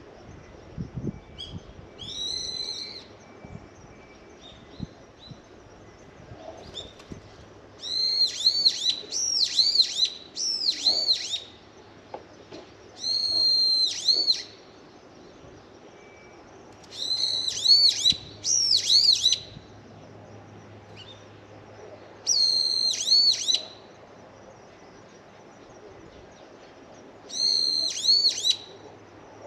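A bird calling loudly and shrilly in short bursts of one to four arched notes, repeated every few seconds, over a faint steady low hum.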